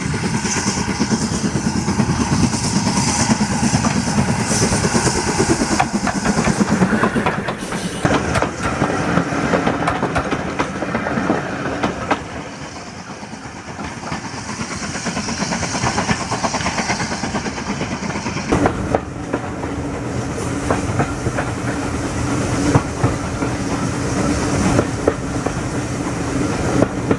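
Heritage railway passenger coaches rolling past at close range, steel wheels rumbling and clicking over the rail joints with a high rushing hiss. After a sudden change about eight seconds in, the rumble and clicking of a moving train heard from aboard, quieter for a couple of seconds then steady with a low hum.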